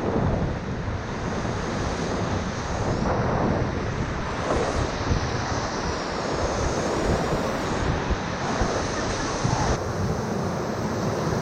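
Whitewater of the Ocoee River rushing steadily around the raft, with wind buffeting the microphone.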